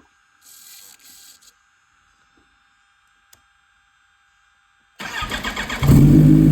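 Kawasaki Ninja H2's supercharged inline-four being cold-started: the electric starter cranks in quick pulses about five seconds in, the engine catches within a second and settles into a loud, steady idle. The bike has sat unused for a couple of weeks.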